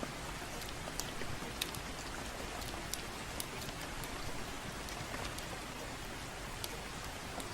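Steady gentle rain with the irregular sharp pops and crackles of a wood fire.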